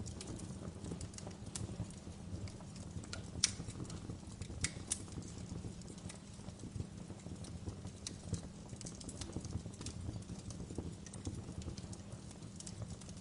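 Wood fire burning in a fireplace: a steady low rumble with constant irregular crackling, and two louder pops a few seconds in.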